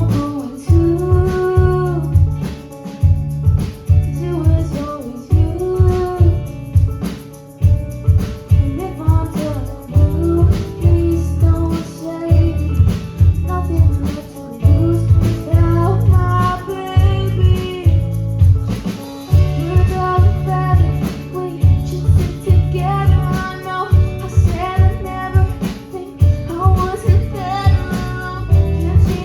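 A singer performing a song with a strummed acoustic guitar accompaniment, the voice carrying the melody over steady, even strums.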